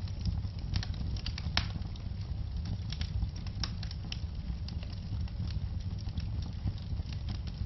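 Fireplace fire crackling: irregular sharp pops and snaps over a steady low rumble of the flames, with the pops coming thickest in the first few seconds and sparser after.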